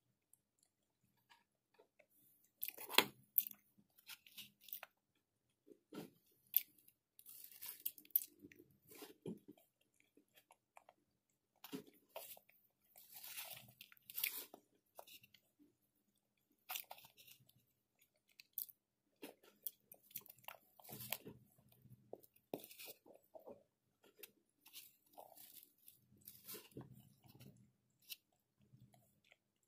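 Close-miked chewing and crunching of a mayonnaise macaroni salad with steamed potato, broccoli and carrots, in short bursts of mouth sounds and clicks with brief quiet gaps between bites.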